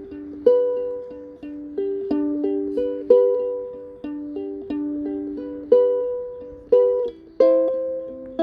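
A ukulele playing a slow melody of plucked notes and chords, each note ringing and fading.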